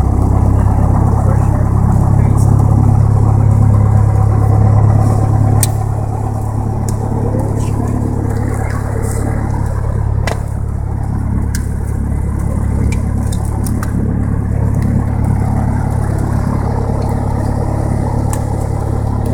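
Light aircraft's piston engine running just after a key start with the fuel primed, heard from the cockpit: a steady low drone that eases down to a slightly lower, steady level about six seconds in. A few sharp clicks sound over it.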